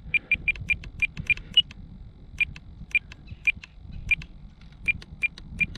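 RC radio transmitter's trim buttons beeping as the trims are stepped back to zero: a quick run of short, identical beeps about five a second, one higher beep, then slower single beeps about every half second.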